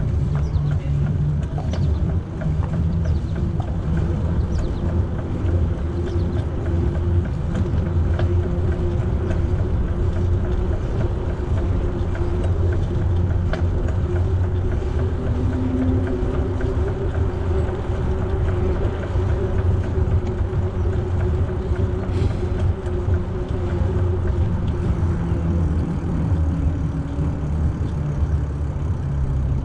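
Steady low rumble of a bicycle ride under way, with wind buffeting the microphone over the noise of the tyres rolling on the path.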